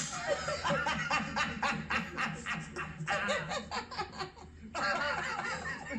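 A person laughing hard, in quick repeated bursts, with a short break a little after the middle.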